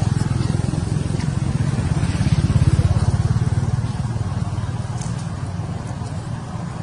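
An engine running with a steady low pulsing, growing louder to a peak about two and a half seconds in, then slowly fading.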